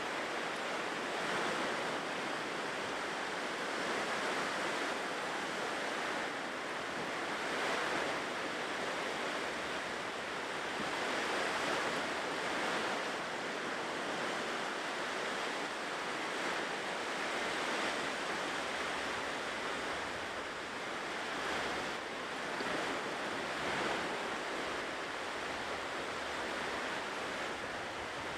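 Ocean waves washing onto a shore, a continuous surf hiss that swells and eases every few seconds.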